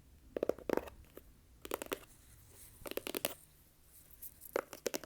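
Fast ASMR tapping and clicking close to the microphone, in four quick bursts of rapid taps about a second apart.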